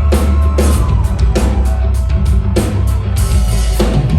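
Live rock band playing an instrumental passage between vocal lines: distorted guitars, bass and drums at full volume, with regular drum hits.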